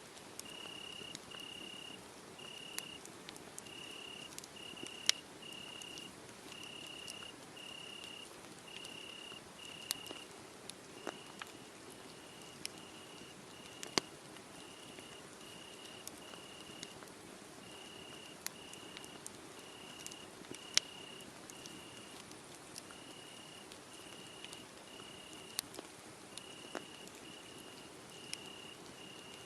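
A cricket chirping in an even, steady series of short pulses, about one and a half a second, over a wood fire crackling with sharp pops every second or two.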